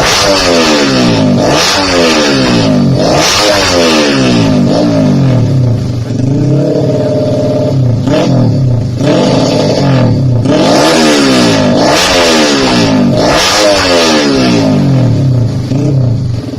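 Stock underbone motorcycle engine breathing through an aftermarket grasstrack exhaust, revved up and let fall back again and again, about once every second or two. A little before the middle the revs are held high and steady for about a second and a half.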